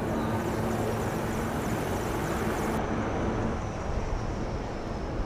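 Military aircraft flying over in formation: a steady rushing engine noise with a faint hum underneath, the sharpest part of the noise dropping away about three seconds in.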